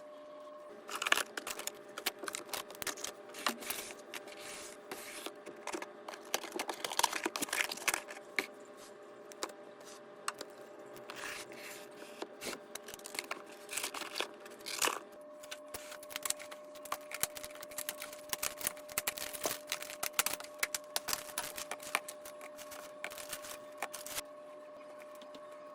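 Plastic packaging and grocery bags crinkling and tearing, with irregular clicks, knocks and scrapes of items being handled and set down. A faint steady hum runs underneath.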